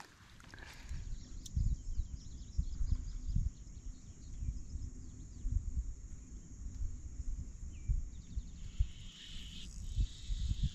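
Wind buffeting the microphone in uneven low rumbles, with faint high bird chirps in the background.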